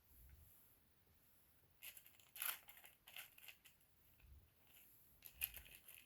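Faint handling noises: a few short scratchy rustles and clicks, bunched around two to three seconds in and again near the end.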